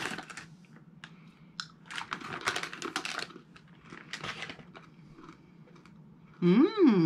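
A plastic snack bag crinkling briefly at the start, then crunchy chewing of candy-coated chocolate peanuts. Near the end, a loud hummed 'mmm' that rises and falls in pitch.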